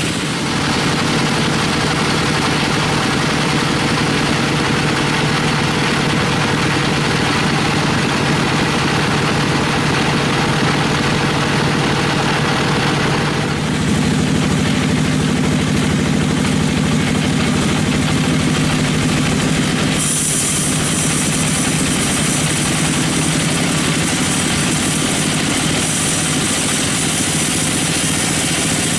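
Sawmill machinery running steadily, its engine note shifting about halfway through, with a higher hiss joining about two-thirds of the way in.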